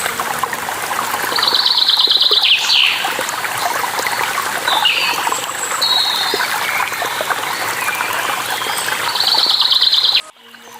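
Running water from a stream or small waterfall, a steady splashing rush, with birds chirping over it: two rapid high trills of about a second each, one near the start and one near the end, and scattered short chirps between. The sound cuts off suddenly just before the end.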